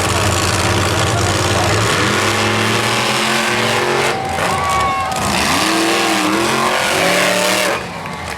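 Monster truck engines racing at full throttle, a loud steady drone that breaks into revving, with the pitch rising and falling from about two seconds in. The engine noise drops away shortly before the end.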